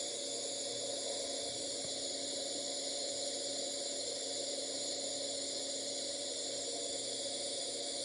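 2020 Tsugami B0203-III CNC Swiss lathe running under power: a steady hiss with a low, even hum.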